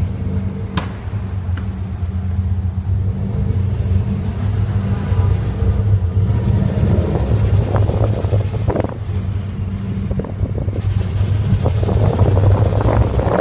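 Subaru WRX's turbocharged flat-four running steadily with a low hum, with an irregular rattling, grinding noise over it that swells from about six seconds in and again near the end. This is the weird transmission sound of a gearbox that won't engage fourth and fifth gear.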